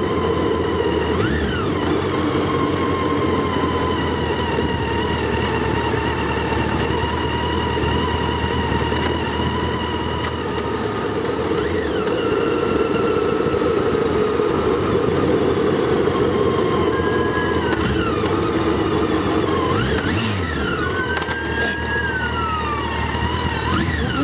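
Motorcycle engine running steadily on the move, with road noise. Several brief rising and falling engine notes pass through, the clearest about three quarters of the way in.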